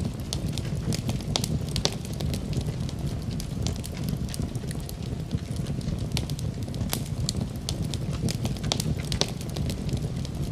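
Wood fire crackling in a fireplace: a steady low roar of flames with frequent sharp, irregular pops and snaps.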